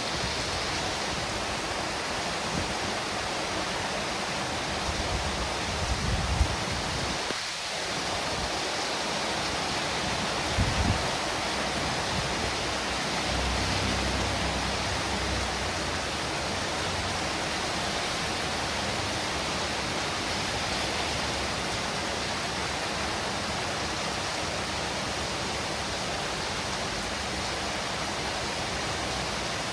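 Steady rain falling, an even hiss, with a few brief low rumbles in the first half.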